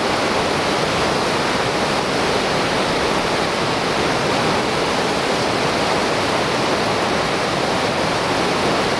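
Steady roar of whitewater rapids on a large river, an even rushing noise with no break.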